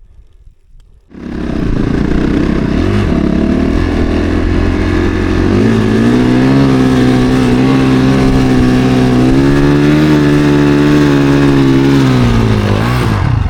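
Snowbike's 450 cc single-cylinder four-stroke dirt-bike engine running under throttle, coming in abruptly about a second in. The revs climb, hold steady high for several seconds, then drop off just before the end.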